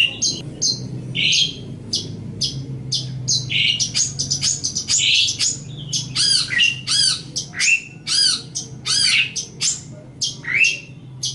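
Long-tailed shrike (cendet) singing a rapid, varied chattering song: sharp clicks and harsh squawks mixed with runs of arched, repeated whistled notes.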